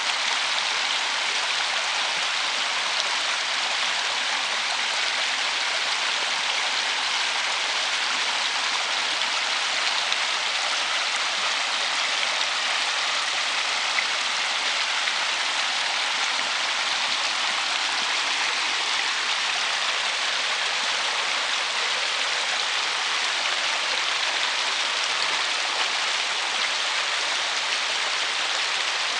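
River water running over a shallow riffle: a steady, even rushing hiss.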